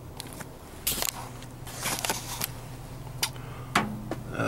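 Scattered knocks, clacks and rattles of someone setting things down and climbing up inside a walk-in freezer, over a steady low hum.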